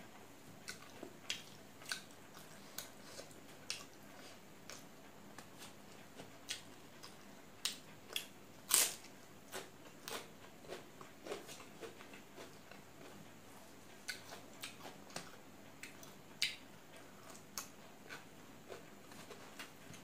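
Close-up eating sounds: a person chewing, with irregular crisp crunches and mouth clicks, the loudest about nine seconds in.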